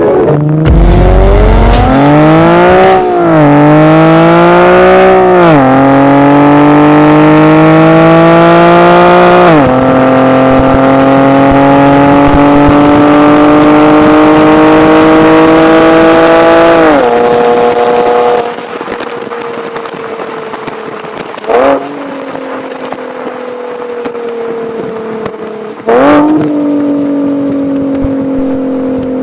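Infiniti G37xs's 3.7-litre V6 accelerating hard through the gears: the engine note climbs and drops sharply at each of three upshifts, then climbs long and steady before the driver lifts off. It then runs quieter at lower revs with a slowly falling note, broken twice by a quick sudden rise in revs.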